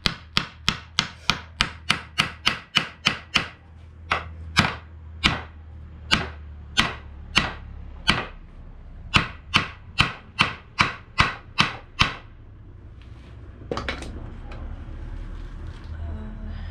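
Hammer striking a large nail into wood: a quick run of about a dozen blows, a few slower, spaced blows, then another quick run that stops about twelve seconds in.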